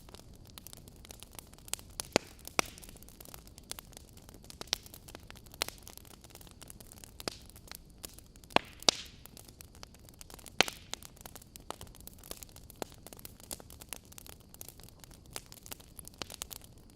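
Wood fire crackling: irregular sharp pops and snaps over a low hiss, a few louder pops scattered through.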